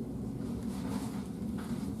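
Wood fire burning in the firebox of a wood-fired bathhouse boiler: a steady low rumble with a few faint crackles.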